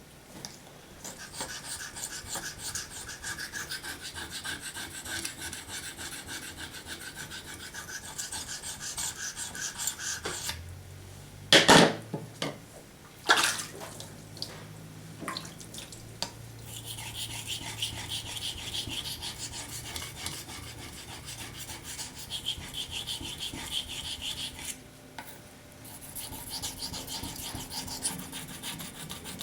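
Knife blade being drawn in straight strokes across a wet waterstone: a steady, rhythmic scraping rub. Two short, loud knocks break in about midway.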